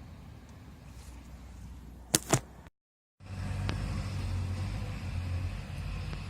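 Two sharp clicks about a fifth of a second apart over a low steady hum, then the sound cuts out briefly and the hum comes back louder.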